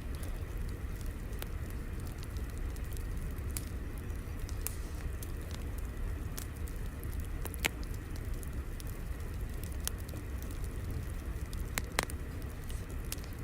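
Wood fire crackling: a steady low rumble with scattered small pops and two sharper pops, one about halfway through and one near the end.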